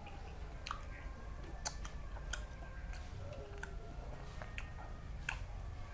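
Scattered wet clicks of chewing and lip-smacking, about six in all, as a man eats raw beef, over a low steady background rumble.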